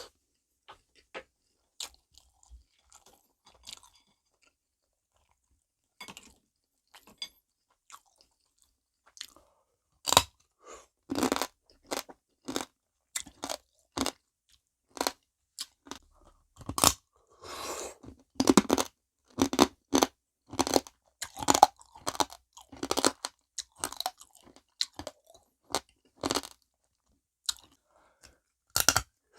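Close-miked chewing and crunching of soy-marinated stone crab (dol-gejang), the shells cracking between the teeth. Soft scattered mouth clicks for the first ten seconds or so, then loud, irregular crunches come thick and fast.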